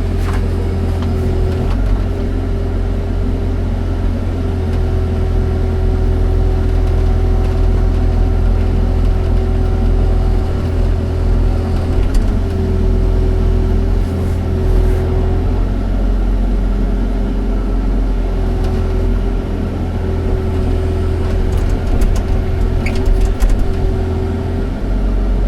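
Excavator's diesel engine running steadily with a strong low hum, and a steady whine that breaks off briefly every few seconds as it works. A few sharp knocks, clustered near the end.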